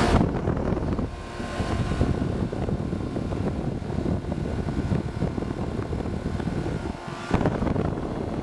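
Two 2-ton Comfortmaker central air-conditioner condensers running together under a high heat load: a steady whir from the condenser fans over the hum of their Copeland reciprocating compressors. The level dips briefly about a second in and again near seven seconds, then picks up sharply.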